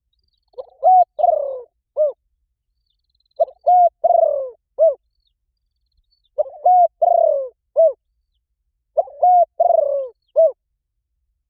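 Spotted dove cooing: four repeated calling phrases, each about one and a half seconds long, made of a short note, two longer notes and a short closing note, about every three seconds. This is the dove's calling coo, used to lure wild doves into answering.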